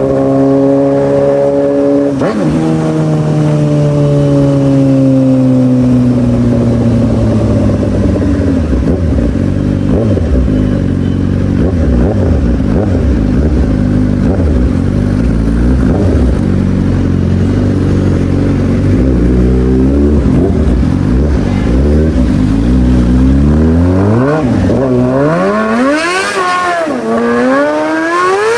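A superbike's engine running hard: its pitch sinks slowly over the first several seconds, then climbs from about two-thirds of the way in, rising and falling sharply a few times near the end as it is revved.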